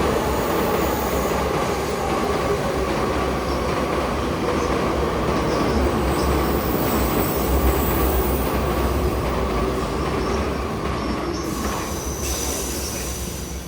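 Electric commuter train running along the platform, wheels rumbling on the rails with some squeal, easing off slightly near the end.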